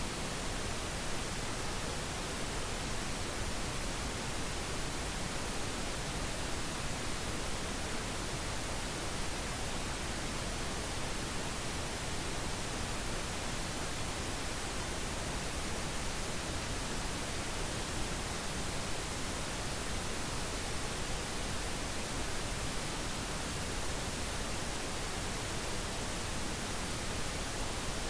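Steady synthetic pink noise, an even hiss spread across the whole range with no change.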